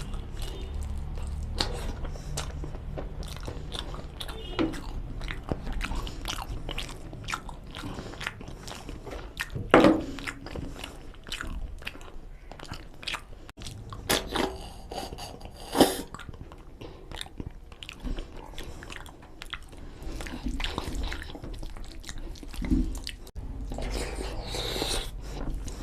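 Close-miked chewing and biting of mutton curry with rice: a steady run of wet mouth clicks and smacks, with a few louder sharp sounds, the loudest about ten seconds in.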